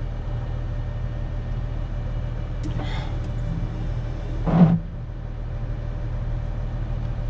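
Wheel loader's diesel engine running steadily, with one short thump about four and a half seconds in.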